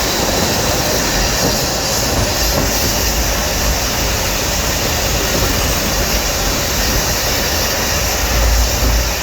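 Diesel-hauled Nilgiri Mountain Railway train running on its rails, heard from inside a carriage: a steady, loud noise of wheels on track that swells in the low end near the end.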